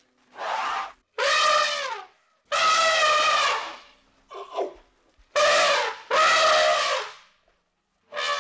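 An animal calling loudly over and over: about six drawn-out calls, each up to a second or so long, with a short gap between them. Each call has a brassy tone that drops in pitch at its end, and there is a shorter, weaker call in the middle.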